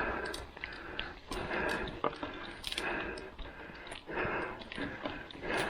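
A person breathing hard and rhythmically, a loud breath about every second and a half, with small clicks and ticks in between.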